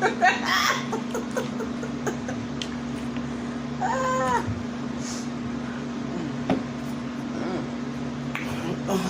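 A domestic cat meowing: one drawn-out call, rising then falling in pitch, about four seconds in, over a steady low hum.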